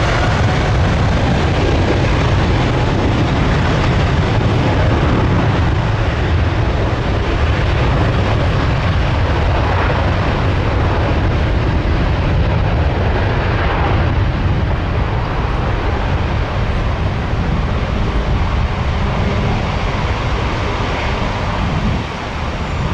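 Large jet airliner passing low overhead near the runway: a loud, steady engine rumble with a hiss of jet noise that eases off slightly near the end.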